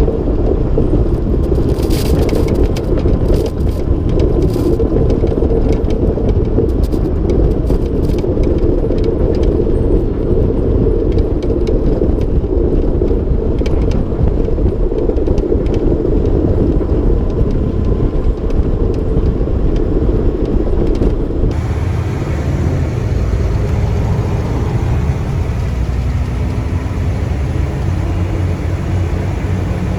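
Heavy snowplow truck driving, with loud engine and road noise and frequent clicks and knocks. About three-quarters of the way through, the sound changes abruptly to a lower, steadier rumble with a faint steady hum.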